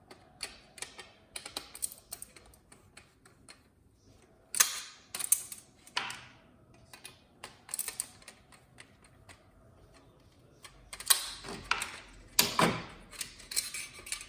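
Irregular clicks, taps and knocks of hard plastic and metal parts being handled as a flat-screen TV is taken apart by hand, with louder clusters of knocks about a third of the way in and again near the end.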